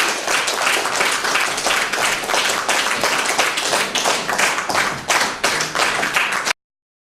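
Audience applauding, with many hands clapping. It cuts off abruptly near the end.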